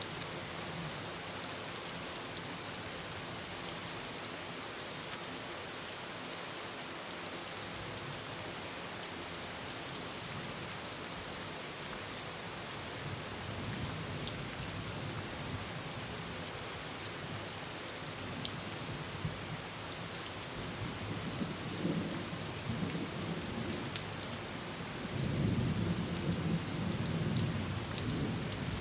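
Heavy rain drumming steadily on a tin roof, with thunder rumbling low in the background and a louder roll of thunder near the end.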